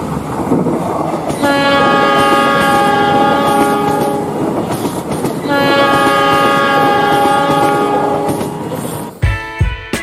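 Diesel locomotive rolling with a steady rumble, sounding its multi-tone horn in two long blasts of about three seconds each. A few heavy thumps come near the end.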